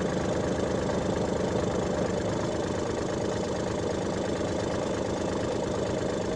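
An engine running steadily at idle, an even fast pulsing throb.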